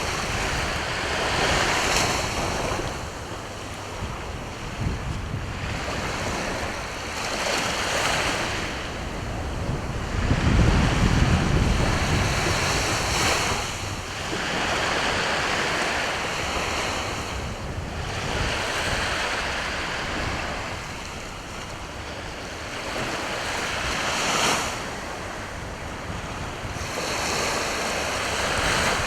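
Sea waves breaking and washing up on the shore, the surf swelling and easing every few seconds. Wind buffets the microphone, loudest as a low rumble about a third of the way in.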